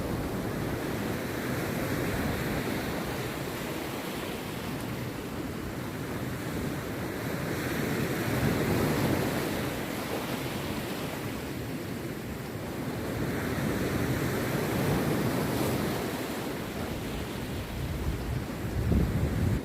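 Rough sea surf breaking on a beach, the wash swelling and falling back about every five to six seconds.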